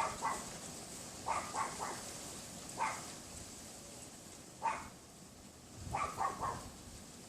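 Pomeranian dog yapping: about a dozen short, sharp yaps, some single and some in quick runs of three or four, with wind rumbling on the microphone.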